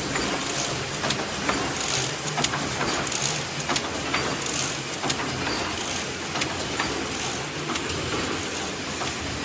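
CNC chain-link fence mesh weaving machine running: a steady mechanical clatter with repeated sharp clicks, roughly one to two a second.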